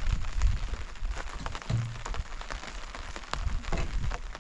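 Rain falling, with drops hitting nearby surfaces as many scattered sharp ticks over a steady hiss.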